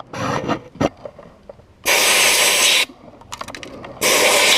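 Sand blast gun spraying glass bead media onto an oxidized engine in two bursts of about a second each, a loud even hiss. Short scraping and clicking sounds come between the bursts.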